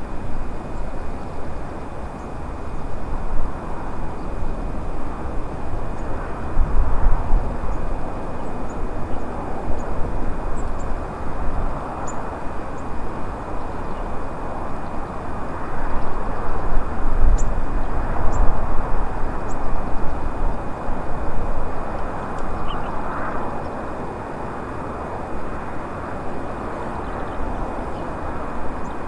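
Car driving, heard from inside the cabin through a dash cam's microphone: steady road and tyre noise, with a low rumble that swells twice, and a faint steady high tone.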